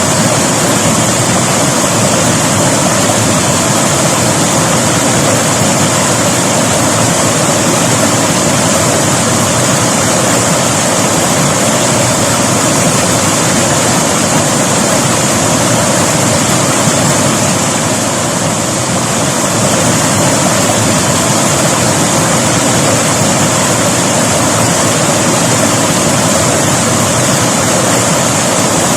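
River water rushing in a loud, steady stream, with a slight dip in level about eighteen seconds in.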